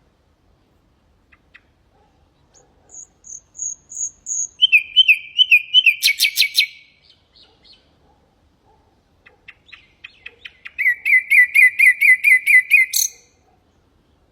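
Common nightingale singing two phrases. Each starts with soft, spaced notes and builds into a fast run of loud repeated notes. The first phrase opens with a few high whistles and ends in a rapid trill; the second ends on a sharp high note.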